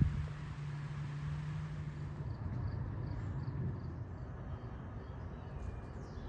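A low steady hum that stops about two seconds in, leaving a low rumble, with a faint high chirp repeating about three times a second.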